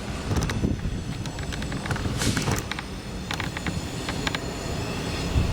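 Steady low vehicle rumble with scattered sharp clicks and a brief hiss about two seconds in.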